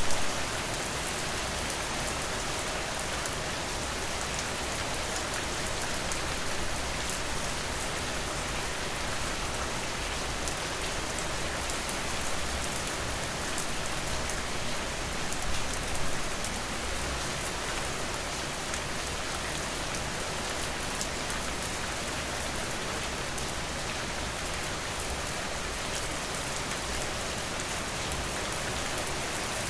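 Steady rain falling, an even hiss of many drops, swelling briefly about halfway through.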